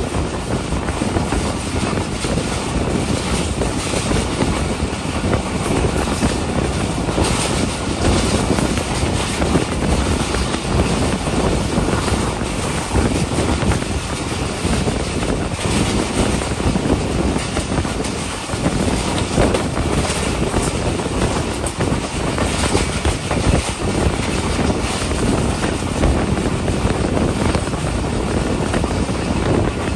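A passenger train coach running along the track, heard at an open window: a steady rumble of wheels on the rails mixed with wind rushing past.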